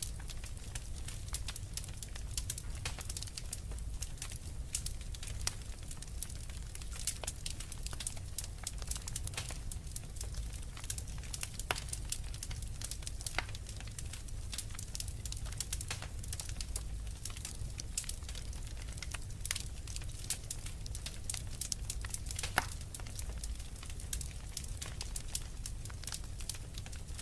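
Wood fire in a fireplace crackling: dense, irregular sharp pops and snaps over a steady low rumble of the burning fire.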